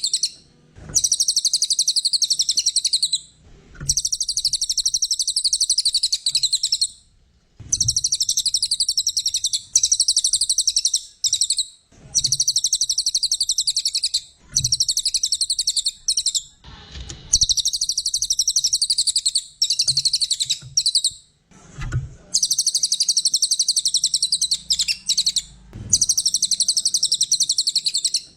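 Brown cililin songbird singing: fast, dense, high-pitched trilling phrases of two to four seconds each, repeated after short pauses of under a second.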